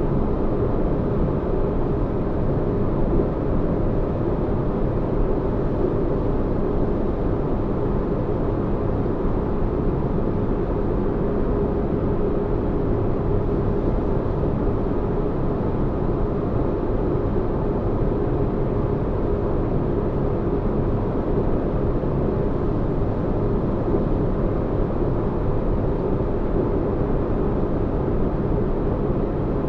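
Spaceship-interior ambience: a steady, deep bass rumble of noise with a faint hum, even and unchanging like an engine room heard from a cabin.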